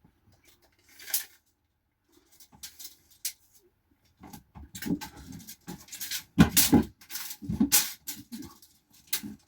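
A dog vocalizing in irregular bursts, getting louder from about halfway through, among scattered knocks and clicks.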